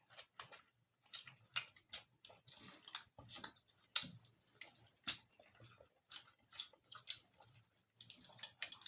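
A person chewing and eating, with irregular wet clicks and smacks of the mouth; the sharpest clicks come about four and five seconds in.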